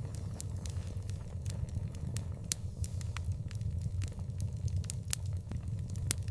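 Wood fire burning with irregular sharp crackles and pops over a steady low rumble of flame.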